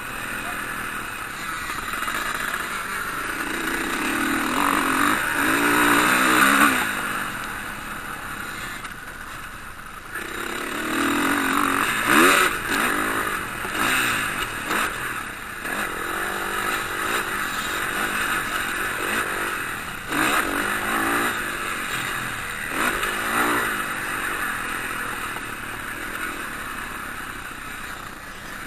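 Motocross motorcycles racing, engines revving up and down in repeated swells as bikes come past. The loudest pass is about twelve seconds in.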